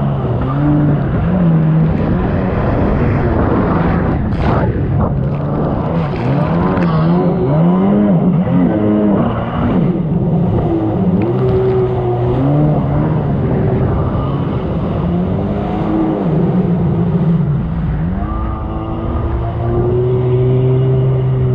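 1999 Sea-Doo XPL's two-stroke engine running at speed, its revs rising and falling over and over every second or two, with a short burst of noise about four seconds in.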